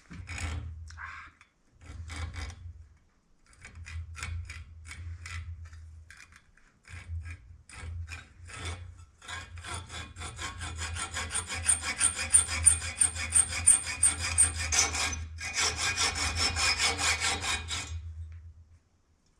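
Hacksaw cutting through a small metal part of a spur: a few short starts, then a steady run of quick back-and-forth strokes that stops near the end.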